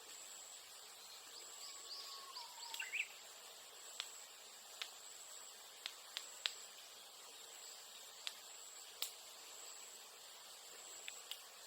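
Steady high insect drone with a Japanese bush warbler (uguisu) singing one "hoo-hokekyo" phrase about two seconds in: a long held whistle, then a quick twisting flourish. A bonfire of bamboo crackles with a dozen or so scattered sharp pops.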